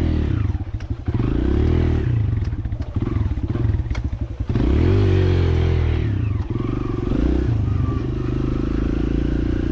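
Dirt bike engine running close by, revving up and easing off again and again, its pitch rising and falling as the throttle opens and closes. It gets louder with a rising rev about halfway through.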